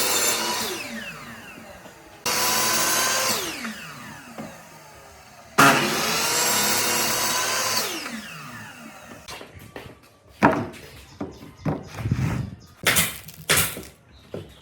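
Handheld power tool on wood run in three short bursts, each starting suddenly and, when released, winding down with its pitch falling away. From about ten seconds in, a string of irregular knocks and scrapes follows.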